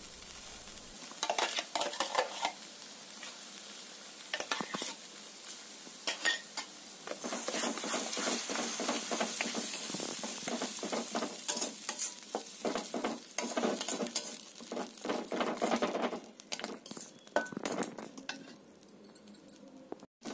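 Tomato-cashew purée sizzling in hot oil in a stainless steel kadai, with a steel spoon scraping and clacking against the pan as it is stirred in. The sizzle is strongest in the middle and dies down near the end.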